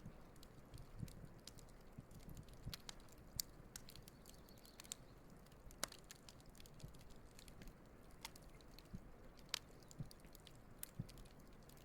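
Campfire wood burning and crackling: sharp pops at irregular intervals, a few louder than the rest, over a faint steady hiss.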